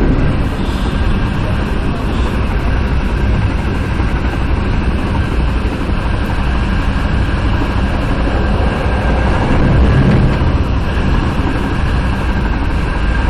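Metra BNSF commuter train running along the track, heard from inside the leading car: a steady low rumble of wheels on rails.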